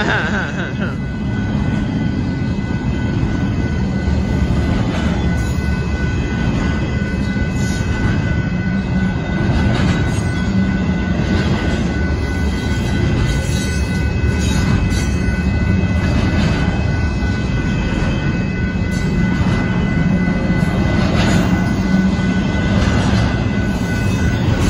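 A Union Pacific intermodal freight train's cars rolling steadily past a grade crossing: a continuous rumble with faint repeated clicks from the wheels. Two steady high-pitched tones sound over the rumble throughout.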